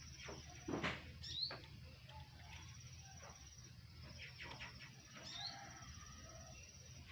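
Oriental magpie-robins (kacer) at a feeding of the young: two short rising chirps, about a second in and again about five seconds in, among scattered light clicks and taps over a steady low hum.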